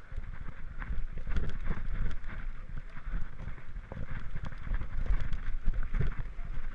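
Mountain bike rolling fast down a dirt singletrack: tyres crunching over dirt and rocks with a run of small rattles and knocks from the bike, under a steady rumble of wind buffeting the microphone.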